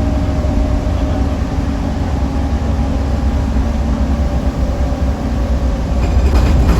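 Scania K310UB6X2 city bus running, its five-cylinder diesel giving a steady low rumble that grows louder near the end.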